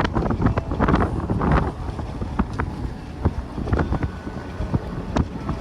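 Wind buffeting the microphone: a low rumble with scattered crackles and clicks.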